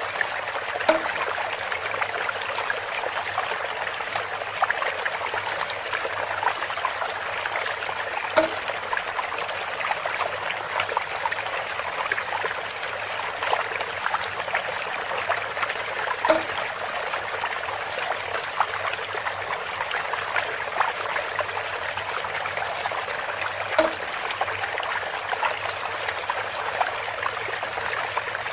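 Water trickling and pouring steadily through a bamboo water feature. A short, pitched, hollow knock comes four times, about every seven and a half seconds.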